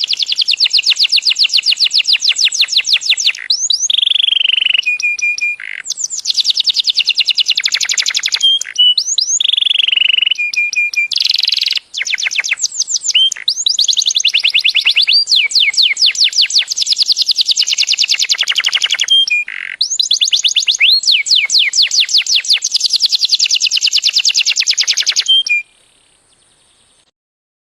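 Domestic canary singing a long song of rapid, high-pitched trills of repeated notes, broken by a few short held whistles and brief pauses, and stopping shortly before the end.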